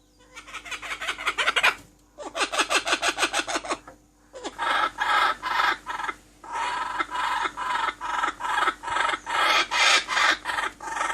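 A bird calling: two quick runs of rapid notes in the first four seconds, then a steady series of repeated calls about twice a second.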